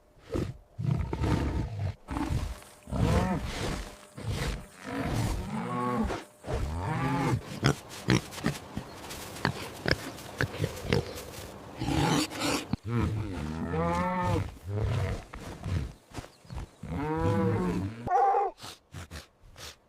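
A string of recorded animal calls, one after another, several of them long pitched calls that rise and fall.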